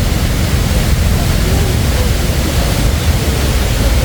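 Steady rushing noise with a heavy, fluttering low rumble: wind buffeting the phone's microphone outdoors.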